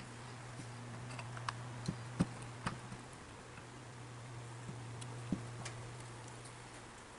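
Scattered light clicks and clinks of small metal parts and hand tools being handled while a Dumore tool post grinder motor is taken apart, the sharpest right at the start and a cluster about two seconds in. A steady low hum runs underneath.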